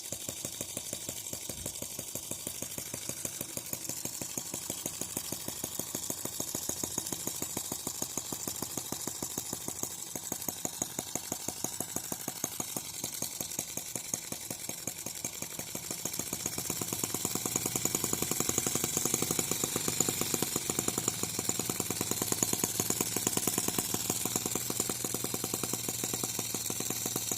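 Small M15 model gasoline engine running with rapid, even firing knocks; it gets louder about sixteen seconds in.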